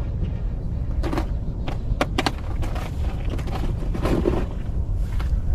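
Wind buffeting the microphone as a steady low rumble, with a few scattered clicks and knocks.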